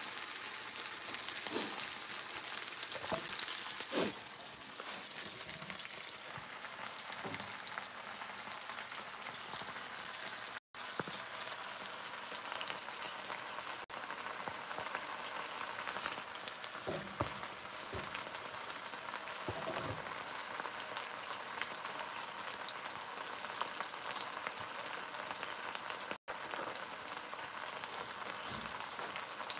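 Bacon-wrapped pork loin sizzling as it sears in a pan on the stovetop: a steady frying hiss with scattered pops and crackles, breaking off for an instant twice.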